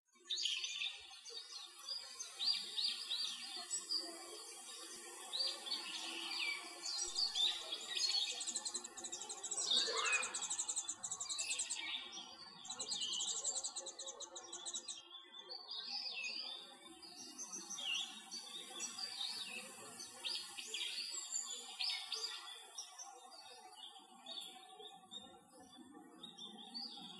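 Small songbirds chirping in a steady stream of short, quick calls, with fast high trills from about seven to fifteen seconds in.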